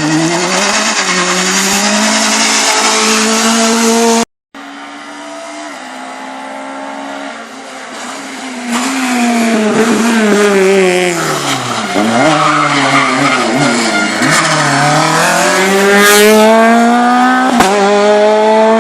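R2-class rally cars at full throttle on a stage, engines revving hard with the pitch climbing through the gears, dropping sharply on lifts and downshifts, and climbing again, with some tyre squeal. A hard edit cuts the sound out briefly about four seconds in, between two passes.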